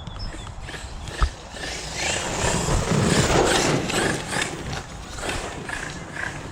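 Hobao Hyper MT Sport Plus 2 RC monster truck running over rough ground, with a sharp knock about a second in and a louder rough stretch in the middle.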